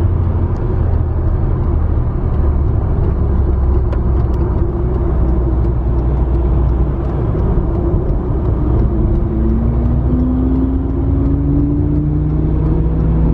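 A car driving along, with a steady low engine and road rumble. Over the last few seconds the engine's pitch climbs slowly as the car speeds up.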